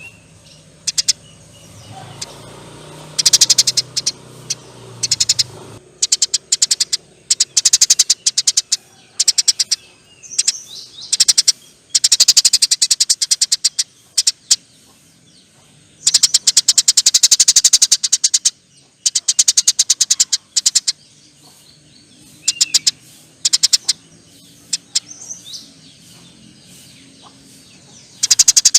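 Eurasian tree sparrows chattering in long, rapid runs of sharp, high clicking notes, the 'nyerecet' churr, each run lasting one to two seconds, the longest about two and a half, with short pauses between.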